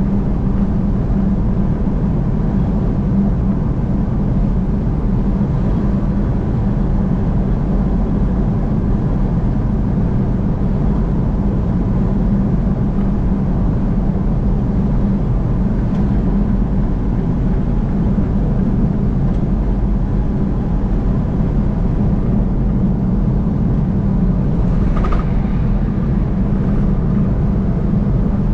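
Car driving at highway speed: a steady, unchanging low drone of tyre and engine noise.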